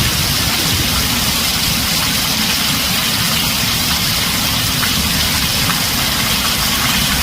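Heavy rain drumming steadily on a tin roof: an even, loud hiss with a steady low rumble underneath.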